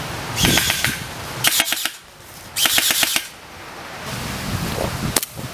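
Airsoft guns firing: three short rapid-fire bursts of sharp cracks, then a single shot or two near the end.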